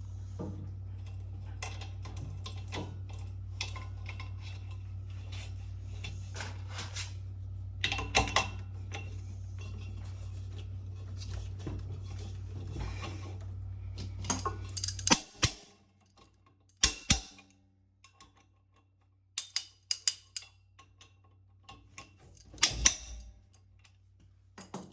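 Irregular metallic clicks and clinks, like small metal parts or tools being handled, over a low steady hum that cuts off about fifteen seconds in; after that the clicks come in short louder clusters.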